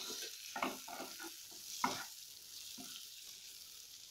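Mushroom masala frying in a stainless steel kadai. A spatula makes several short scraping strokes as it stirs, the loudest about two seconds in. Under the strokes is a light sizzle that fades toward the end.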